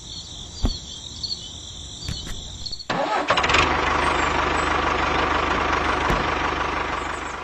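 An engine starts up about three seconds in and runs steadily with an even low pulsing, fading out near the end. Before it, a high wavering trill is heard.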